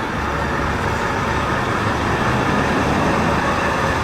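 1980s-era ERF lorry driving in, its engine rumble growing gradually louder.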